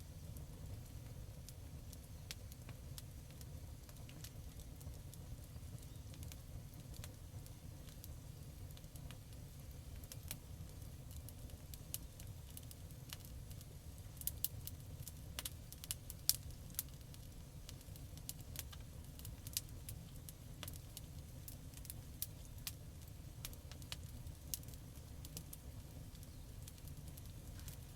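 Campfire wood burning and crackling: scattered sharp pops and snaps over a low, steady rumble, with the pops coming thickest about halfway through.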